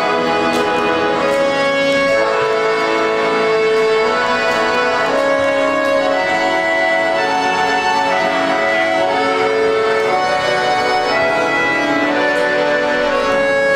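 Children's band playing an instrumental piece: held chords under a moving melody, at a steady, even loudness.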